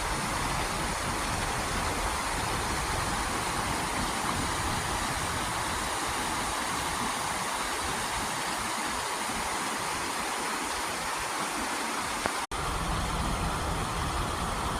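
Steady rush of running water from a creek or small waterfall, with a momentary break about three-quarters of the way through.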